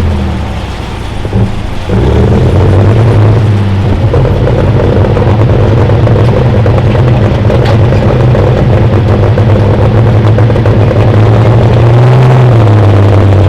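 Pulling tractor engine running loud under full load during a pull. It falls off for about a second near the start, then comes back sharply and holds steady.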